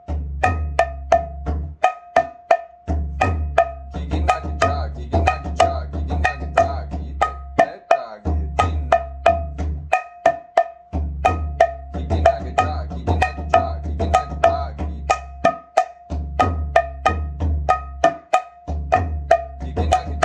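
Mridanga played in a continuous rhythmic pattern: sharp ringing strokes on the small head, several a second, with stretches of deep booming strokes on the big head. It is a kaharba groove run into a tehai that uses the snapped one-finger "nak" (chutki) stroke.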